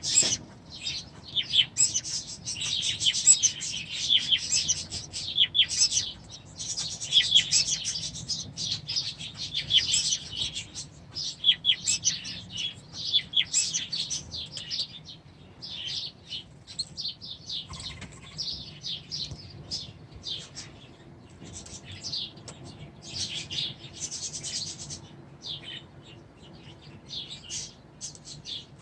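A flock of small aviary birds chirping and chattering over one another without pause, busiest and loudest in the first half.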